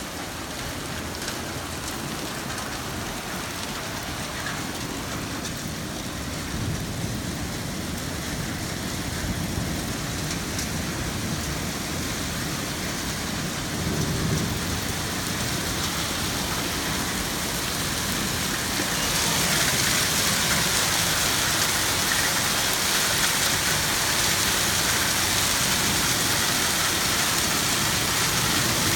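Heavy rain pouring down in a steady hiss, growing heavier about two-thirds of the way through.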